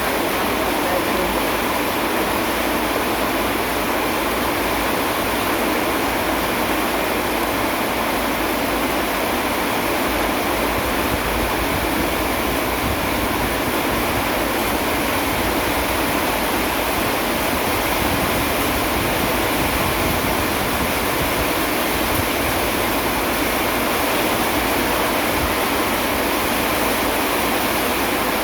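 Steady heavy rain, an even hiss with no let-up and no thunderclaps.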